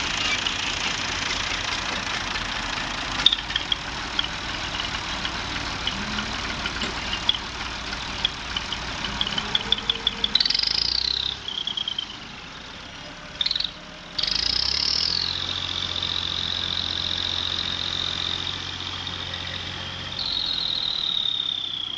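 Tractor engine running, with a high whine that starts several times and falls in pitch, and a quick run of clicks partway through. The sound drops quieter for a couple of seconds near the middle.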